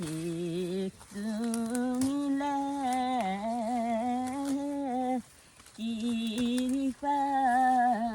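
A woman singing a slow tune in long, wavering held notes, breaking off briefly about a second in and again about five seconds in.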